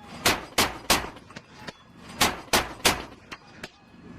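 M242 Bushmaster 25 mm chain gun firing two three-round bursts, the shots about a third of a second apart, one burst near the start and the next about two seconds in. A couple of fainter metallic clinks follow.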